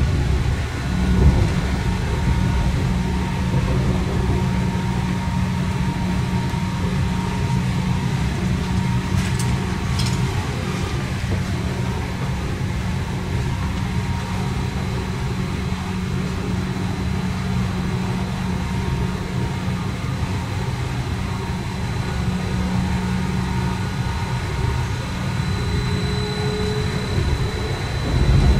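Swiss S-Bahn commuter train running, heard from inside the carriage: a steady low rumble of wheels on rails with a constant whine. A couple of sharp clicks come about nine to ten seconds in, and a high-pitched whine joins near the end.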